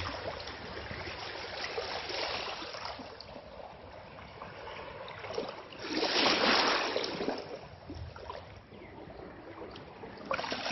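Small sea waves washing on a sandy beach, with one louder wave rushing in and running out about six seconds in.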